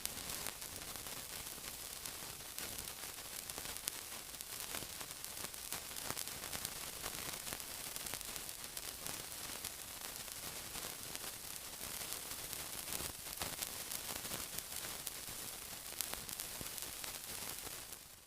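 Steady sizzling: a dense, even hiss full of fine crackles, cutting off suddenly at the very end.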